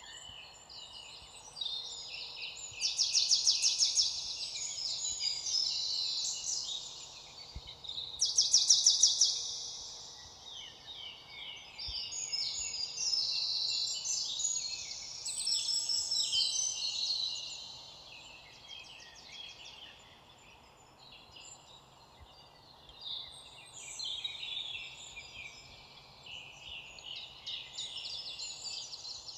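A chorus of songbirds singing at once, overlapping high chirps and trills, with two louder rapid trills about three and eight seconds in.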